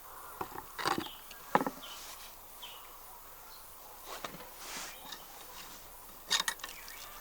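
A few scattered short clicks and knocks over a faint steady outdoor background, the sharpest about a second and a half in and a quick cluster near the end.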